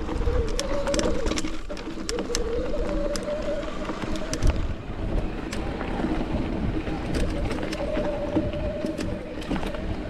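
Mountain bike rolling over a rocky trail: tyres rumbling over rock, with frequent clicks and rattles from the chain and frame and a whirring hum that rises and falls with speed.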